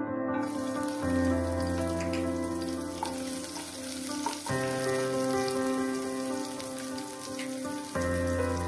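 Chopped ginger and green chilli sizzling in hot oil in a kadhai, the hiss starting as they drop in. Under it runs background music of slow, sustained keyboard-like chords that change every few seconds.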